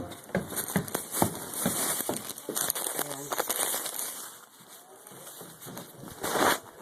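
Footsteps at a walking pace, about two and a half steps a second, with rustling and handling noise from a camera held close against clothing; a louder rustle near the end.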